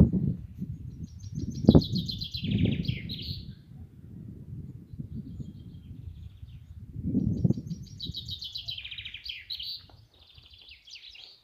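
A songbird singing two phrases of rapid repeated high notes, one starting about a second in and the other about eight seconds in. Underneath runs a low rumble with two sharp thumps, at the very start and just under two seconds in, louder than the song.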